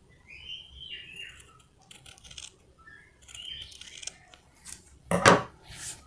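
Scissors snipping through a piece of brown felt, several short cuts with the loudest about five seconds in, trimming the edge of the piece.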